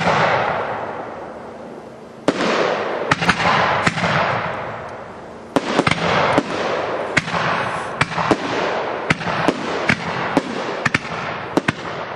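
A consumer fireworks cake firing. Three volleys each set off a bright hiss that fades over two or three seconds. From about halfway in, sharp bangs come two or three a second.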